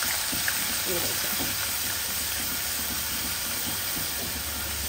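Ginger-garlic paste sizzling steadily in hot oil with onion and cumin, stirred with a wooden spoon in a small nonstick pan as it is sautéed for the masala base.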